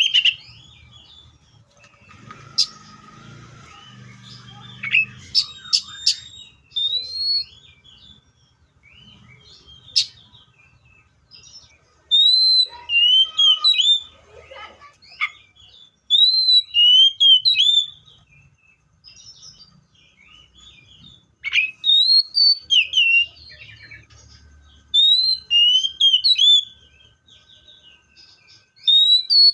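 Magpie-robin singing: loud bursts of fast, rising and falling whistled phrases every few seconds, with quieter chirps in between.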